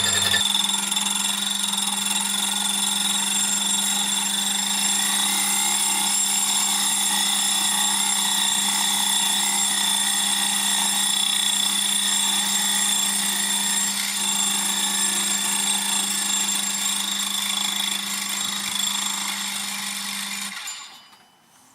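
A metalworking machine tool in a home workshop running steadily, a constant motor hum under a high machining whine, then switched off and winding down near the end.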